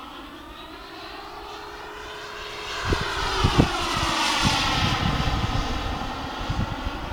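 Model jet with a Jet-Italia Kayman 190 turbine flying past: the turbine's whine and rush swell from about two and a half seconds in, are loudest around four to five seconds, then ease off, the pitch bending as it passes. Low thuds sound during the loudest part.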